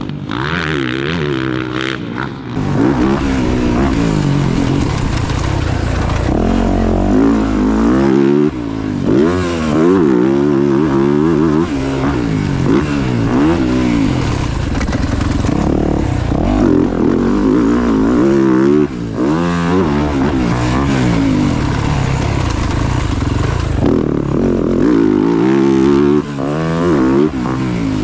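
Dirt bike engine revving hard around a motocross track, its pitch climbing and falling over and over as the rider opens and shuts the throttle and shifts through the gears, with a few brief dips where the throttle is chopped.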